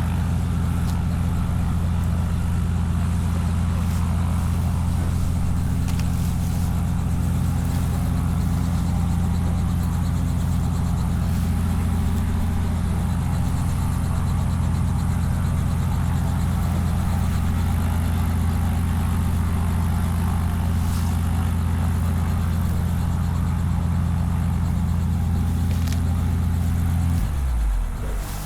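An engine running steadily with an even, low drone that then shifts and drops in level about a second before the end.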